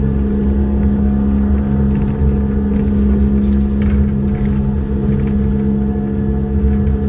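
Monorail car running steadily down its track, a constant motor drone with a low, even hum heard from inside the car.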